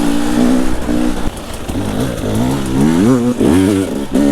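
Enduro dirt bike engine running steadily, then easing off about a second in and revving up and down several times as the throttle is worked.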